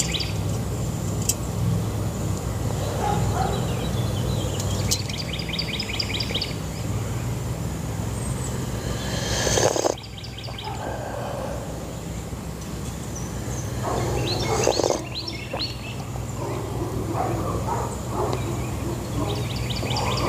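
Outdoor ambience: a bird calling in quick repeated high trills, several bouts a few seconds apart, over a steady low hum, with two brief louder rustling swells partway through.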